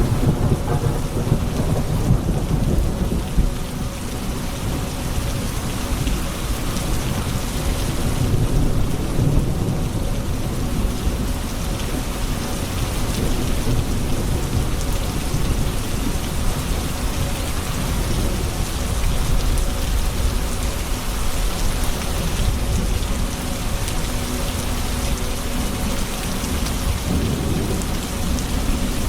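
Steady heavy rain falling on hard surfaces, with low rolling thunder that swells twice.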